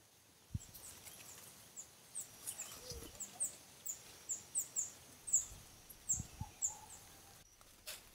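Faint birdsong: many short, high chirps, each falling in pitch, in an uneven run over a faint steady high tone.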